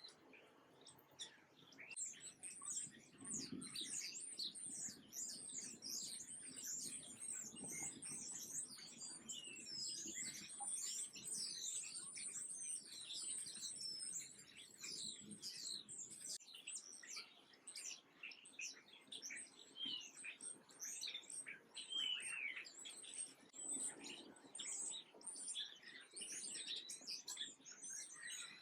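Many small birds chirping at once, a dense, continuous chatter of quick high notes that thickens about two seconds in.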